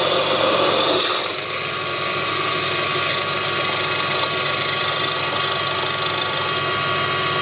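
Proxxon PD 250/E mini lathe running steadily with a constant motor whine while the centre hole of a small nut is machined. The sound drops slightly and changes tone a little over a second in.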